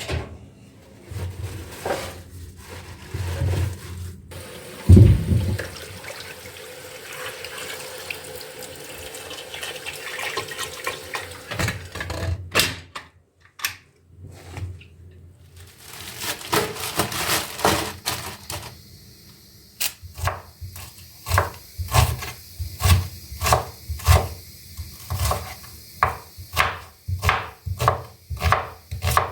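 Kitchen tap running water into the sink, then a knife chopping on a wooden cutting board in a steady rhythm, about one or two strokes a second, through the second half.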